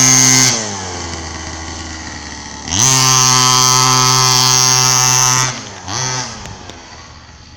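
Small engine of a mini pocket-bike motorcycle at high revs. It drops back about half a second in, rises sharply to full throttle and holds there for nearly three seconds, blips once more briefly, then fades away.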